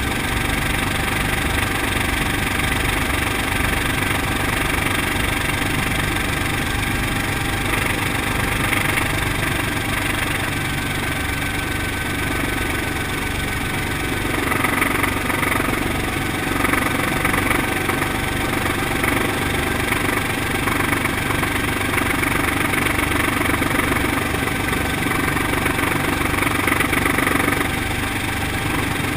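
Brantly B2B helicopter's piston engine and rotor running steadily, heard from inside the cabin. The sound grows somewhat louder and fuller about halfway through, then eases back near the end.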